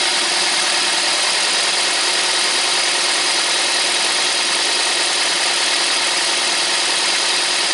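Four-cylinder car engine idling rough and shaking, a misfire from one broken ignition coil, with a metallic rattle from a loose exhaust manifold heat shield.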